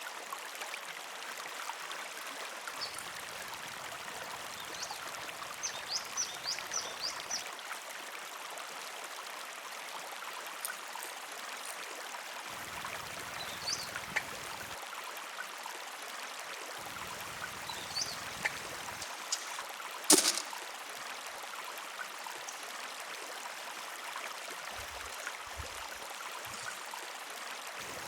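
River water flowing steadily, with scattered light ticks, a few short high chirps, and one sharp knock about twenty seconds in.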